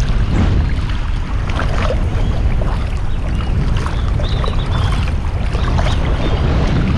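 Wind buffeting the microphone in a steady low rumble over the wash of surf and shallow water.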